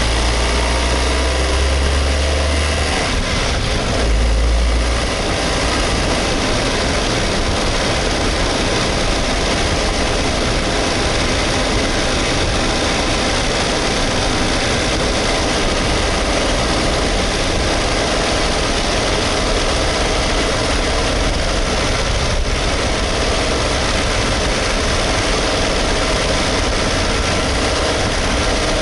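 Suzuki Hustler's small three-cylinder engine running steadily, with a heavier low rumble for the first few seconds and again briefly about four seconds in.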